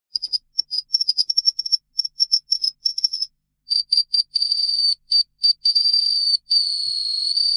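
High, pure bird-like whistling calls: a run of rapid short chirps, then after a brief pause longer notes held at the same steady pitch, the last lasting about a second.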